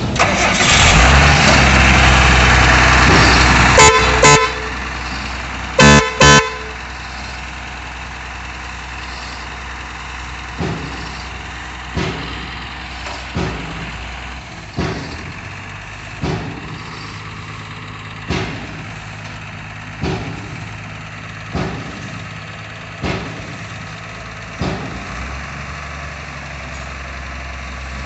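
Heavy truck engine running loud, then horn honks: one short blast and two quick blasts close together. After that the engine idles steadily while a knock repeats about every one and a half seconds.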